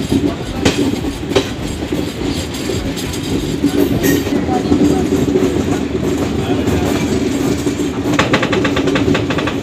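Passenger express train running on a curve, heard from an open coach doorway: a steady rumble of the coaches, with wheels clicking over the rail joints. Near the end comes a quick run of clacks.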